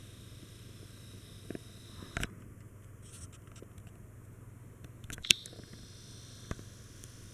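Hampton Bay Huntington III five-blade ceiling fan running steadily with a low hum, broken by a few short sharp clicks, the loudest about five seconds in.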